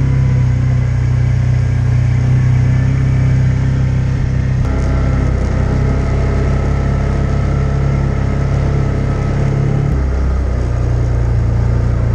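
Can-Am Commander side-by-side's engine running steadily under load while it tows a snowmobile, its note changing about a third of the way in and again near the end.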